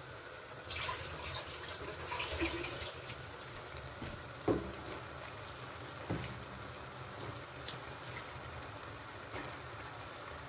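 Cubed raw potatoes tumbling into a clay pot of minced meat frying in oil, with a soft steady sizzle. Two sharp knocks of a wooden spoon against the pot follow, about four and a half and six seconds in.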